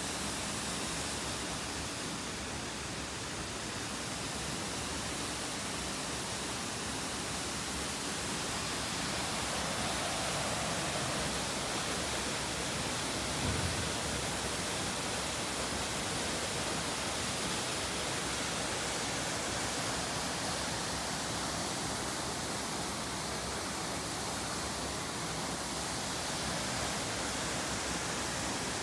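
Steady rushing road and wind noise inside the cab of a Subaru Sambar kei vehicle on the move, with a single low thump about halfway through.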